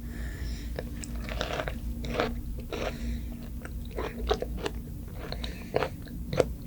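Close-miked chewing and biting of food: a run of irregular, crunchy, wet clicks from a mouthful being eaten.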